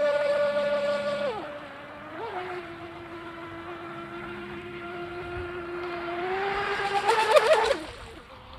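High-pitched whine of an RC mini boat's 2040 brushless motor (3900 kV, 11.1 V LiPo), throttled: high at the start, dropping back after about a second, held steady, then rising again with a burst of crackling before easing off near the end.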